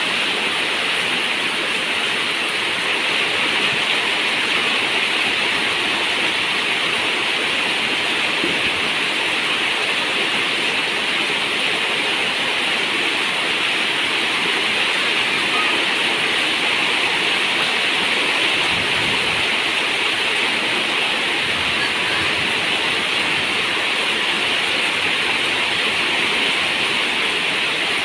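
Steady rain falling on a zinc roof, a dense, even hiss with no letup.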